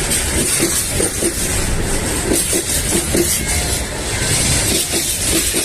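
Freight train wagons rolling past, wheels clicking over the rail joints in uneven groups above a steady loud rumble and hiss.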